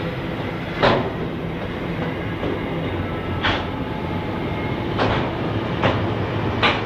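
Freight train of container wagons rolling past with a steady rumble, broken by about five sharp metallic clacks as the wheels cross the track. In the second half a diesel locomotive passes close by, its engine adding a low hum.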